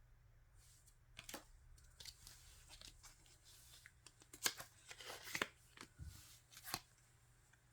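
Handling of a CD album's packaging and photocards: scattered rustles, crinkles and sharp clicks, the sharpest about four and a half seconds in.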